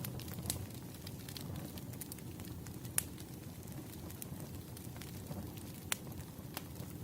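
Wood fire crackling: a steady low rumble of burning logs with scattered sharp pops, the loudest about three and six seconds in.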